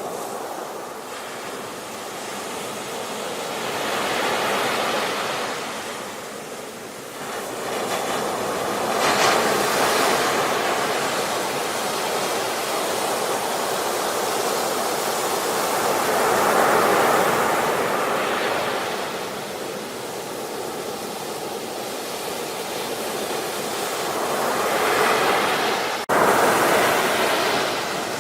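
Ocean surf: waves breaking and washing in, the rush swelling and easing every several seconds. A momentary dropout, like a splice, near the end.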